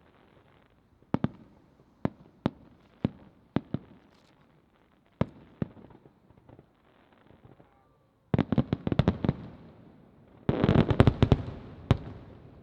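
Aerial firework shells bursting: a string of single sharp booms at first, then two dense rapid volleys of bursts from about eight seconds in, the second one the loudest.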